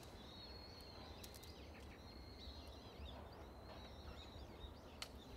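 Faint, continuous chirping and twittering of small birds, with a few light clicks.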